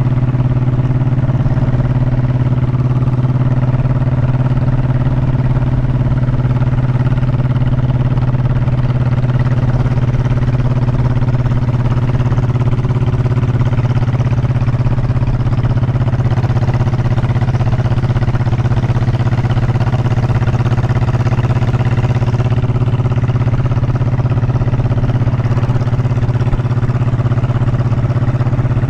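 Honda motorcycle engine running at a steady, unchanging pitch throughout.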